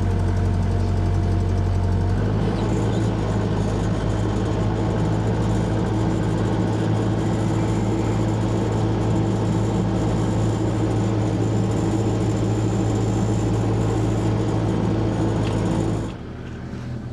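Excavator engine running hard under load while the hydraulics hold a heavy log up in the bucket. The engine note shifts about two seconds in and drops away sharply about a second before the end.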